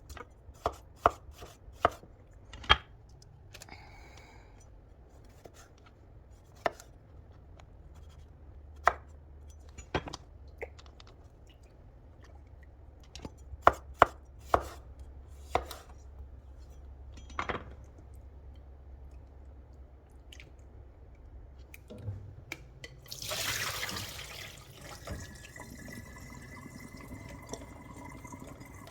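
A knife strikes a cutting board in irregular knocks as food is chopped, some strikes in quick pairs. Near the end there is a short rush like running water, followed by a faint steady trickle.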